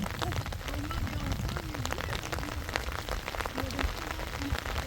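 Rain falling steadily, many drops ticking irregularly on a surface, over a low rumble, with faint voices in the background.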